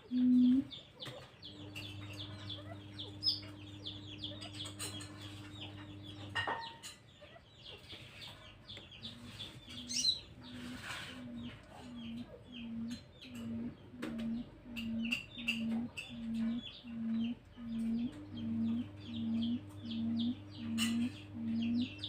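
A moulting decoy quail (puyuh) calling: a long, steady low note, then a run of short low hoots at about one and a half a second that grow louder, with the steady low note returning near the end. Small birds chirp throughout.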